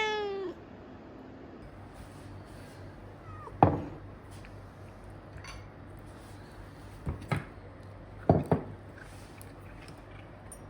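A domestic cat meows once at the very start, a short call that rises and falls. Then come several sharp knocks: one about three and a half seconds in, and two quick pairs near seven and eight seconds.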